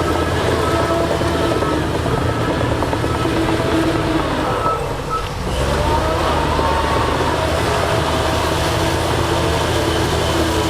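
Heavy diesel engines of earthmoving machinery (bulldozer and dump truck) running steadily under work, with a brief dip in level about halfway through.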